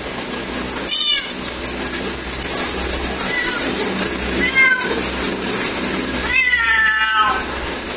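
Female cat meowing about four times, the last call the longest, drawn out for about a second and falling in pitch, over a steady low hum.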